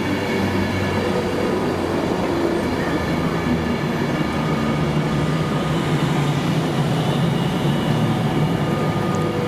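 Passenger train running at a station platform: a steady mechanical hum with several held, whining tones.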